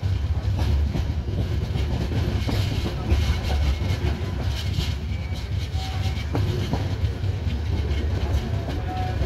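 Passenger train running on the rails, heard from aboard the moving coach: a steady low rumble of wheels on track with scattered clicks.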